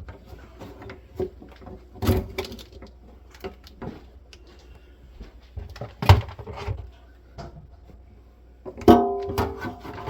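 A flat screwdriver prying at the cut lock nut of a sink basket strainer: irregular metal clicks and scrapes, with sharper clanks about two and six seconds in and a louder one near the end that rings briefly.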